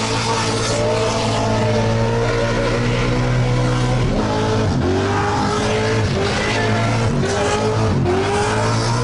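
Supercharged burnout car's engine held at high revs with the rear tyres spinning, heard from inside the cabin. About halfway through, the revs start dipping and climbing again roughly once a second.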